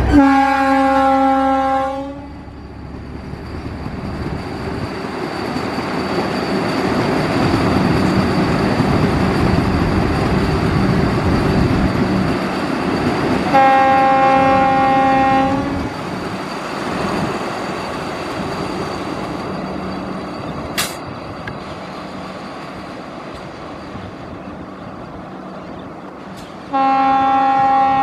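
Vande Bharat Express electric train set sounding its horn three times, steady two-second blasts, at the start, about halfway through and near the end. Between the blasts the rumble of the train running through swells and then fades away.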